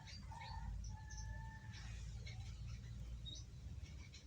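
A young songbird twittering softly in short chirps and squeaks, with one held whistle about a second in: the halting sub-song of a juvenile bird learning to sing. A steady low hum runs underneath.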